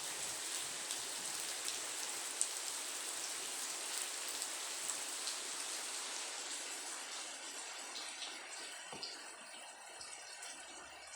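Rain falling steadily, a constant hiss with drops ticking sharply on surfaces. It grows fainter in the second half.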